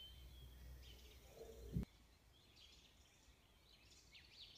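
Near silence: faint, distant small-bird chirps over a low background rumble. The rumble cuts off abruptly a little under two seconds in.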